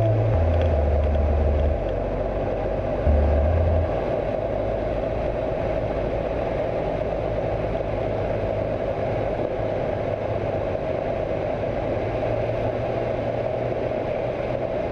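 Steady engine and propeller noise of a Cessna 172 light aircraft, with a low bass line of music ending about four seconds in.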